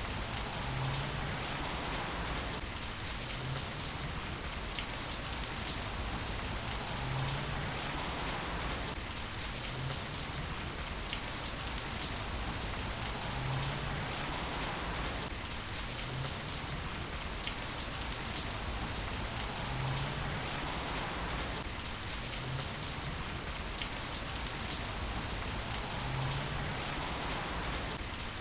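Heavy rain falling steadily, a dense patter of drops with occasional sharper drip ticks.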